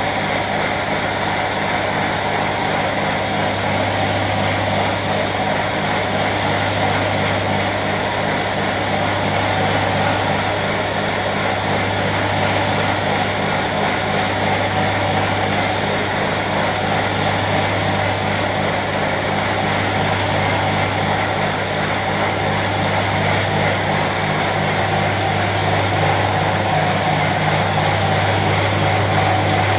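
A motor running steadily, with a low, even hum and a constant hiss.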